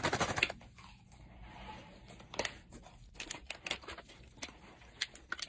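Plastic candy bag crinkling and rustling as it is handled: a quick flurry of crackles at first, then scattered single crackles.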